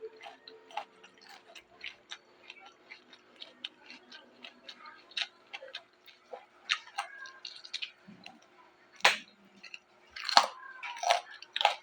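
Close-up chewing and crunching of raw vegetables: a run of crisp irregular clicks and crackles, louder bites near the end.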